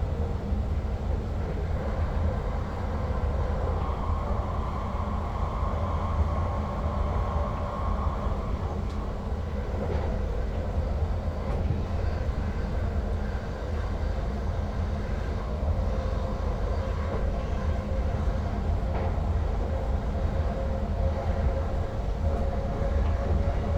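Electric Sprinter Lighttrain (SLT) multiple unit running along the track, heard from the driver's cab: a steady low rumble of wheels on rail. A faint whine sits on top, higher in pitch early on and lower in the second half.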